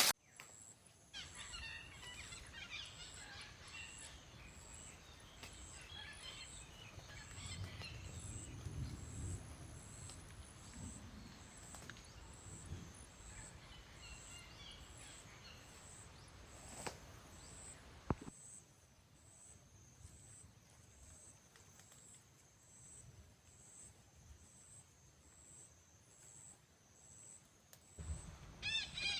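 Faint bird chirps over quiet outdoor background noise, with one clearer chirping call near the end.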